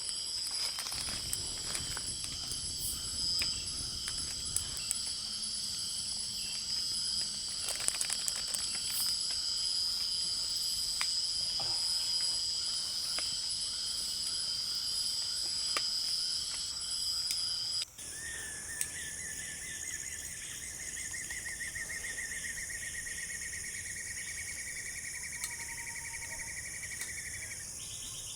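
Jungle insect chorus: a steady, high-pitched buzzing with a few light clicks. About 18 seconds in it changes abruptly to a different chorus, joined by a pulsing trill that rises slightly in pitch for about nine seconds.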